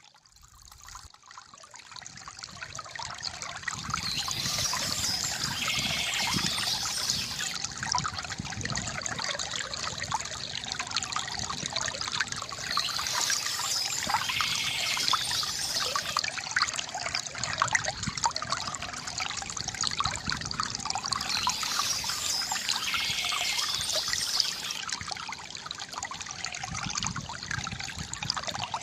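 River water gurgling and trickling over stones, fading in over the first few seconds, with soft bird chirps coming back about every eight or nine seconds.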